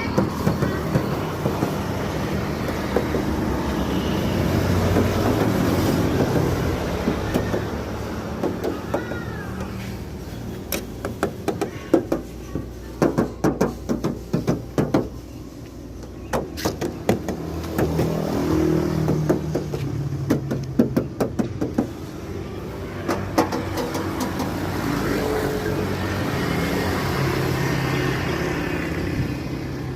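Tapping on the sheet-metal body panels of a used Suzuki APV, in several runs of quick sharp knocks, checking by sound whether a panel is still bare steel or has been filled with body putty. Steady road traffic runs underneath.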